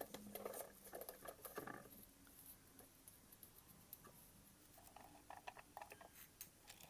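Faint taps and scrapes of a spatula against the stand mixer's bowl, scraping down honey stuck to the sides while the mixer is stopped. The sound is scattered and light, near silence, with quieter stretches in the middle.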